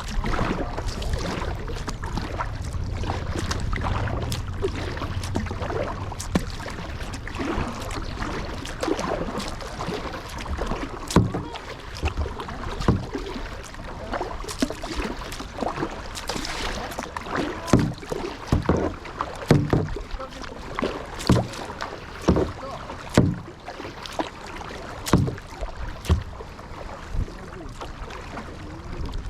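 Kayak paddling on a river: a steady wash of moving water, then from about a third of the way in, sharp paddle strokes hitting the water roughly once a second.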